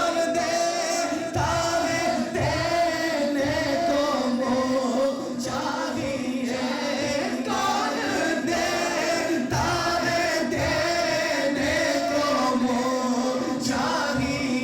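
Men singing a naat, an Urdu devotional poem in praise of the Prophet, in long held, melodic lines.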